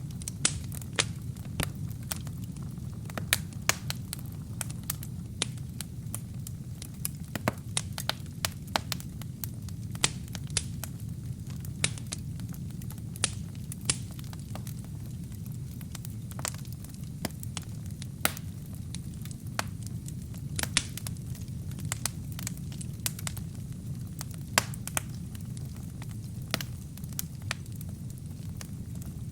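Wood fire burning, crackling with irregular sharp pops and snaps over a steady low rumble of the flames.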